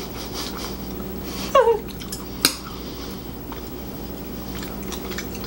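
Quiet mouth sounds of people chewing and nibbling meat off small bones, with a short falling 'mm' from a voice about a second and a half in and a single sharp click about a second later.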